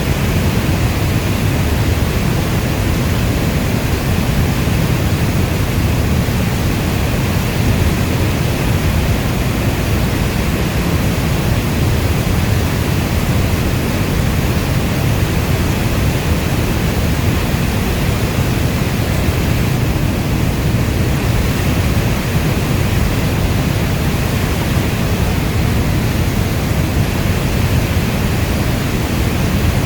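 Rainstorm ambience: a steady, even wash of rain noise, weighted toward a deep low rumble, unchanging throughout.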